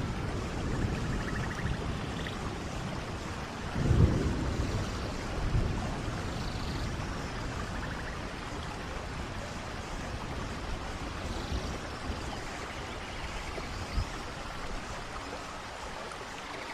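Rain falling beside a waterfall: a steady rush of falling water, with a brief low rumble about four seconds in.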